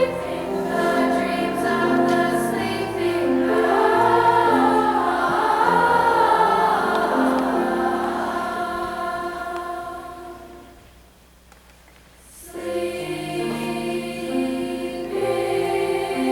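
Junior high girls' choir singing sustained chords; about ten seconds in the singing fades almost away, then the choir comes back in.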